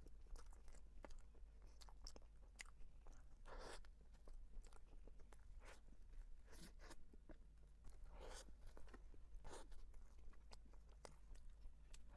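Quiet, close-miked chewing of soft cream-filled bread: many small wet mouth clicks and smacks, with a few short, louder soft noises between them.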